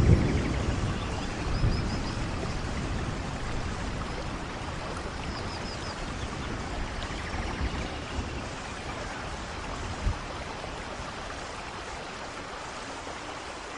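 Steady downpour in a rainforest thunderstorm, with a low rumble of thunder at the start that dies away over the first couple of seconds, leaving the rain alone with a single dull thump about ten seconds in.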